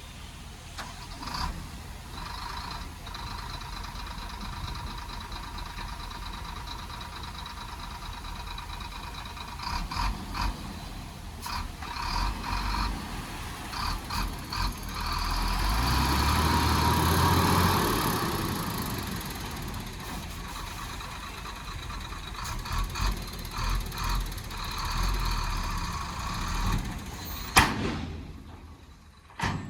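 Heavy diesel earthmoving machinery at work: an engine running steadily, revving up under load for a few seconds midway, with scattered metallic clanks and knocks and one sharp bang near the end.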